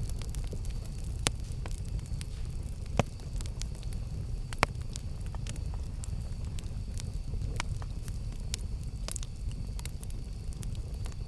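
Campfire burning, crackling with sharp pops at irregular intervals over a low steady rumble. The loudest snaps come about a second in, at three seconds and near the middle.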